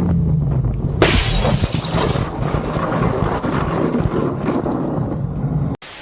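A motorcycle engine running fades out, then about a second in comes a sudden loud crash with shattering and breaking. It is followed by rough, scraping noise until it cuts off abruptly near the end.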